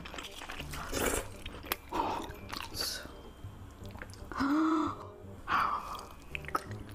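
A person chewing and biting food with wet, crunchy mouth sounds and scattered clicks, with a brief pitched sound about halfway through.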